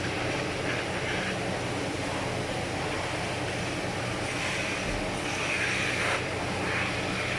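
Steady running noise of a Mitsubishi Pajero, a constant low hum under an even hiss.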